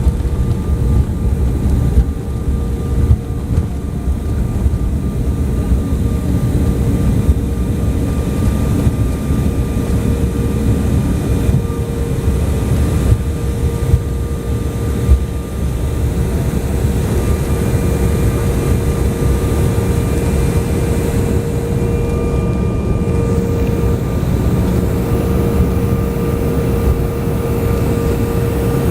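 Airliner cabin noise: the engines and airflow make a steady, loud rumble with a constant droning tone, broken by a few short knocks in the first half.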